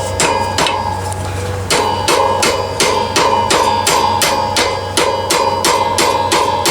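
Hammer blows on a screwdriver set against a dirt bike's rear chain adjuster, metal on metal, each strike ringing. They come about two or three a second, with a short pause about a second in, driving the rear axle back to tighten the chain.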